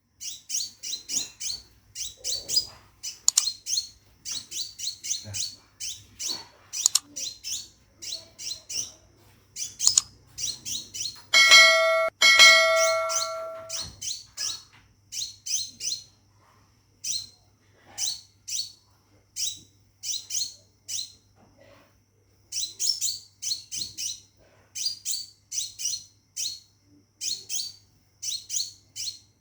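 Caged scarlet minivet (sepah raja) in full song: bursts of short, high, falling notes repeated in quick runs, a male's call to a female. About eleven seconds in, a louder steady-pitched two-part tone sounds for about two seconds.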